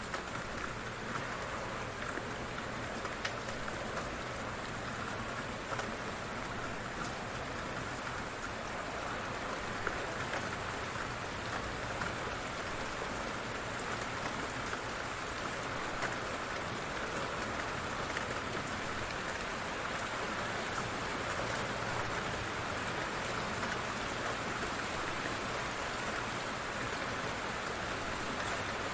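Light rain falling steadily, a continuous patter with scattered single drops ticking.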